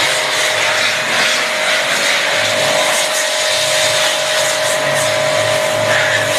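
A machine running steadily with a loud hiss and a low throbbing hum; a steady whine joins in about two seconds in.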